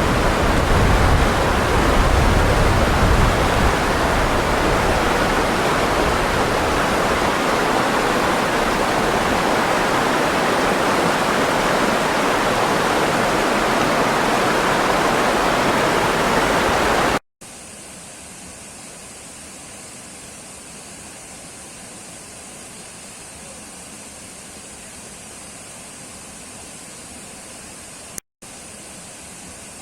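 Steady roar of rushing water, like a waterfall, that cuts off abruptly a little over halfway through. A much quieter, even hiss follows, broken once by a brief dropout with a click near the end.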